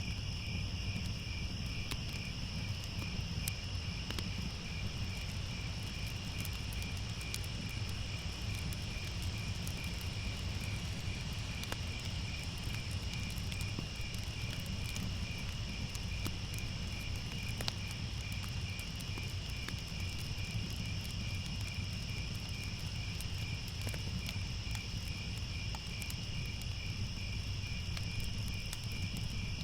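Crickets chirping steadily in several high tones, over a fire crackling with scattered sharp pops and a low, steady noise.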